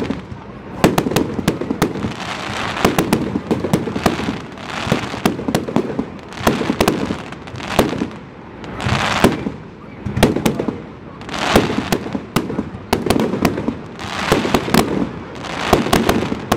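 Aerial fireworks display: shells bursting overhead in quick succession, sharp bangs with crackling, a new burst every second or so.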